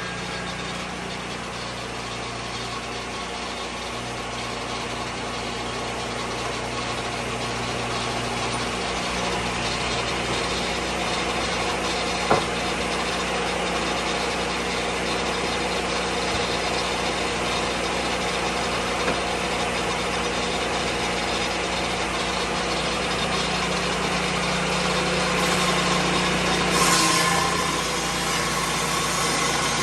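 Lucas Mill 10-30 swing-blade sawmill running steadily on its engine, with a single sharp tick about twelve seconds in.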